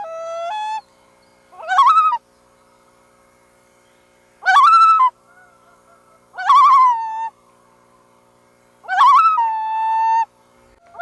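Loon calling: about five wavering, quavering calls a second or two apart, each about a second long, some ending in a held note.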